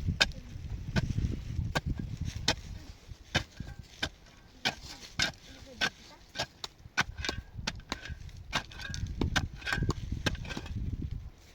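Repeated sharp knocks and clicks at an uneven pace, roughly one or two a second, over a low rumble, with a few short honk-like tones among them.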